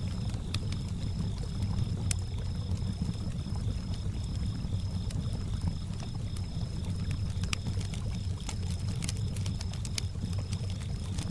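Campfire crackling with a sharp pop now and then, over a steady low wash of lake water lapping. Crickets chirp in an even, high-pitched pulse throughout.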